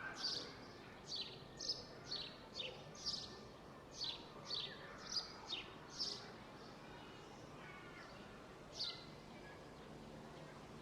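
A songbird chirping: a run of short, high, quickly falling notes, about two a second, then a pause and one more chirp near the end, over faint steady outdoor background noise.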